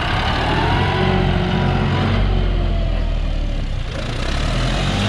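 John Deere 5065E tractor's diesel engine running steadily.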